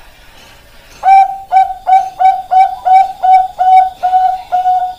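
Bangkok-strain zebra dove (perkutut) cooing: starting about a second in, a quick run of about ten short, clipped notes on one pitch, roughly three a second.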